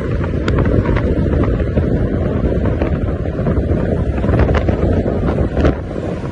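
Wind buffeting the microphone: a loud, steady rumble, with scattered faint ticks over it.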